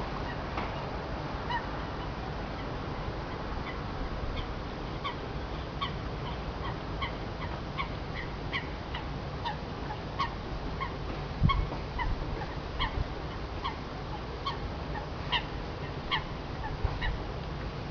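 Birds calling over and over in short honking calls, about one or two a second, over a steady low rumble. A single low thump comes about eleven and a half seconds in.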